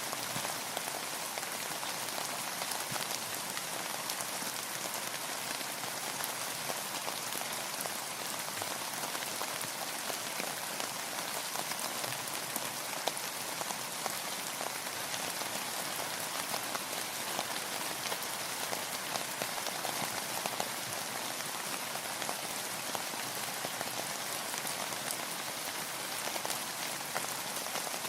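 Steady rain falling: an even hiss with many fine drop taps, unchanging throughout.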